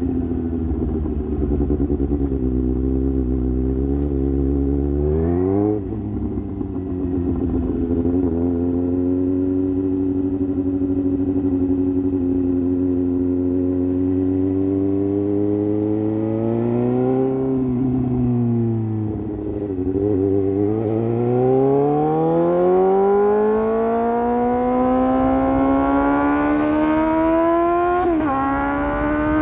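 Suzuki GSX-S750 inline-four motorcycle engine through an aftermarket sport exhaust, riding along. The revs hold fairly steady, fall off around two-thirds of the way through, then climb in one long pull under acceleration, with a quick dip near the end as it shifts up.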